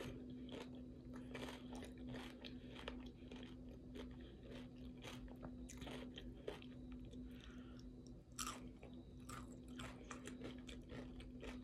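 A person chewing a mouthful of taco salad with tortilla chips close to the microphone: soft, irregular crunches, over a faint steady hum.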